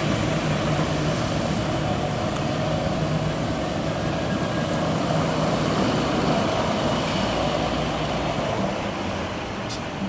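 Diesel engine of a water truck running steadily, driving the PTO water pump against closed spray heads, with a steady rushing hiss. The hiss is the pressure relief valve open and sending water back into the tank.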